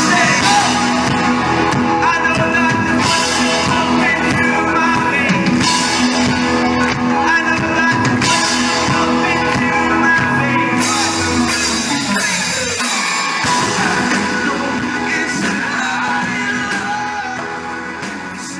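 A rock-pop song with a male voice singing over guitar and drums, fading out near the end.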